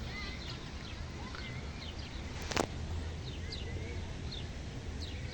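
Small birds chirping, with many short falling chirps and brief whistled glides scattered throughout, over a steady low rumble. There is one sharp click about two and a half seconds in.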